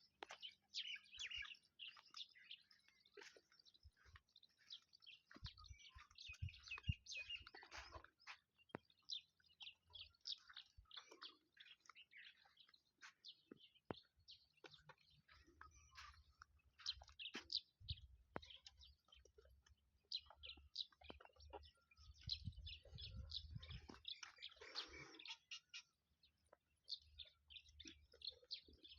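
Faint chorus of small birds chirping, with many short, quick calls throughout, and occasional soft low thumps.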